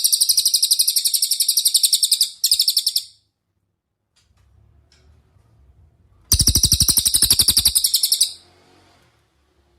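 A cililin songbird singing loud, rapid trills of evenly repeated high notes, about ten a second. The song comes in three bouts: a long one that breaks off after about two seconds, a short one just after, and another lasting about two seconds after a pause of about three seconds.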